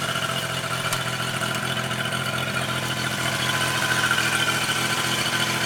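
The pony motor, the small auxiliary engine on a 1997 GMC chipper bucket truck, running steadily at idle. It grows a little louder about four seconds in.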